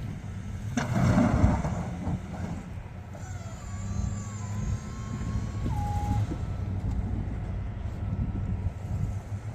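Snow-plow truck engine running steadily, with a louder, rougher burst about a second in.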